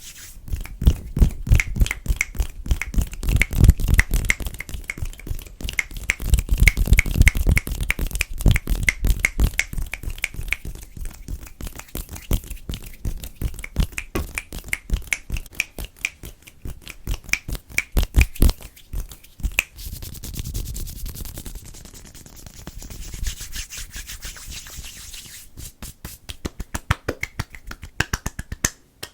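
Fast fingertip and fingernail tapping on a table, in rapid runs of taps. The taps are heavy and thumpy for about the first ten seconds, then turn lighter and quicker, with a stretch of scratching and rubbing on the surface past the middle.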